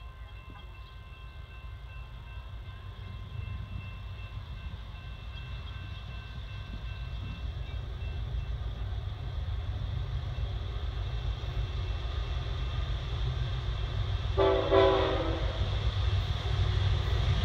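Canadian National freight train's diesel locomotives approaching, a low rumble growing steadily louder, with one short horn blast about fifteen seconds in.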